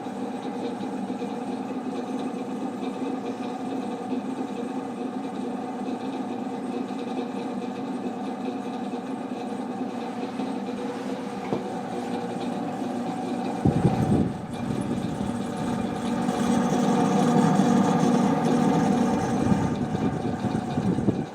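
1979 Emerson Casablanca friction-drive ceiling fan running at its highest setting with a steady mechanical drone; on this model the higher setting adds noise but no speed. About two-thirds of the way in a thump and a low rumble join, and the sound grows louder for a few seconds before dropping off.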